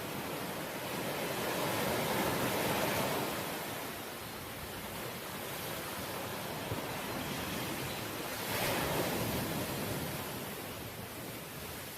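Sea waves breaking and washing in, a steady surf hiss that swells twice: once about two seconds in and again about three-quarters of the way through.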